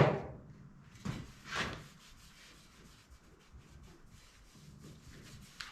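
Hand rubbing and scraping on the tailgate surface during prep: a sharp scrape right at the start, two softer ones about a second and a half in, then quiet rustling.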